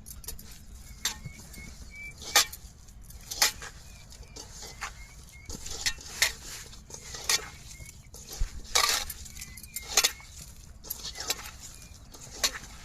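Irregular clinks, knocks and scrapes of a utensil against a metal vessel as stone-ground coconut is mixed into crumbled steamed fish, with faint short high chirps repeating in the background.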